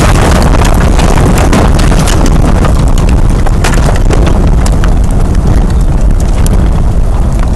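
Tornado wind blowing hard and buffeting the microphone with a heavy, loud rumble, while many sharp irregular knocks of objects strike around it.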